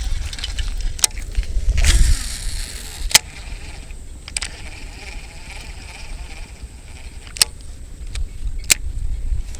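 Wind buffeting the microphone as a steady low rumble, with a brief rush of hiss about two seconds in and several sharp, isolated clicks.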